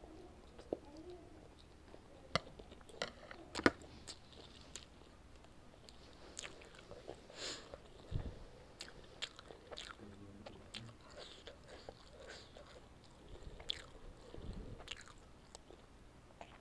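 Close-miked mouth sounds of a person eating spicy instant noodles: soft chewing with scattered sharp clicks, the loudest a few seconds in.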